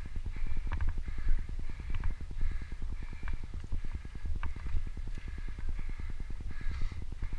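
Dirt bike engine running at low revs while being ridden, its exhaust giving an even, rapid pulse of about ten beats a second. There are a few sharp clicks over it.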